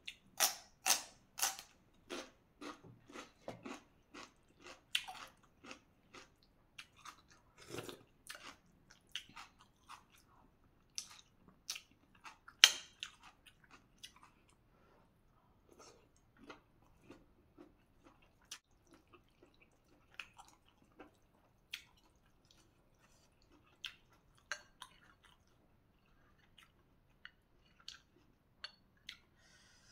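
Close-up chewing of crunchy raw water spinach (morning glory) stalks: crisp crunches several a second at first, then sparser, softer chewing and mouth clicks, with one sharp click near the middle the loudest.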